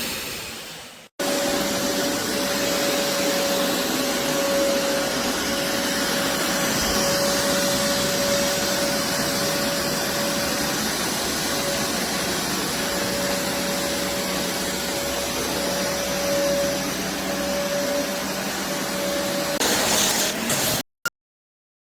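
BISSELL Revolution HydroSteam Pet carpet shampooer's suction motor running steadily with a constant whine. It cuts off abruptly about a second before the end.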